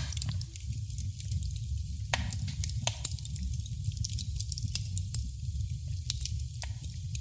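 Wood fire crackling in a fireplace: many small sharp crackles and a few louder pops over a steady low rumble of flame.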